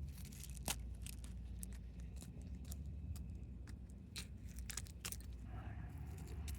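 Faint, irregular clicks and taps, like small plastic figures being handled and set down, over a low steady rumble.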